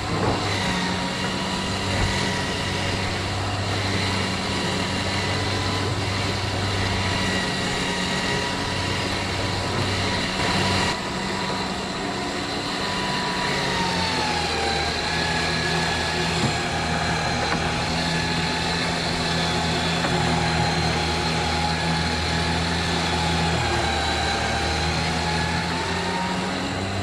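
Electric trailer winch running with a steady whine as it pulls a tractor onto a trailer; its pitch drops about halfway through and rises again near the end. A low steady hum runs underneath.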